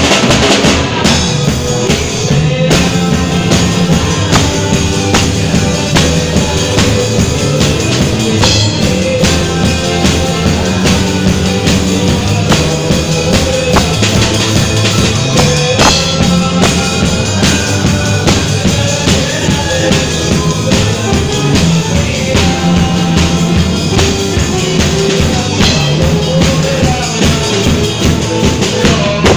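A live band playing, with a drum kit keeping a steady beat under sustained bass notes.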